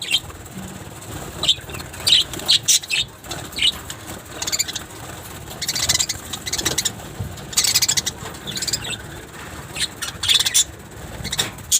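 Small caged birds chirping over and over in short, high-pitched calls, with the flutter of wings as they fly about the cage.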